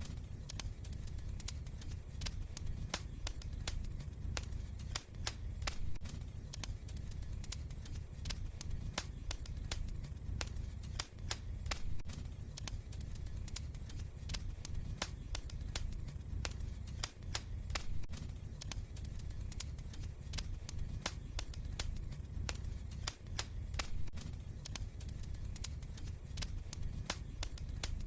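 Wood fire crackling, with irregular sharp pops and snaps, several a second, over a steady low rumble of flame.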